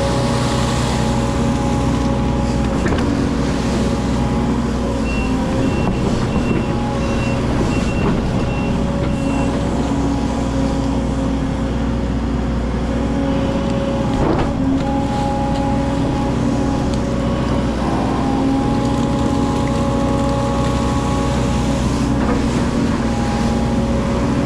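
Hydraulic excavator's diesel engine running steadily under work. A string of short, evenly spaced high beeps sounds for a few seconds early on, and there are a couple of brief knocks.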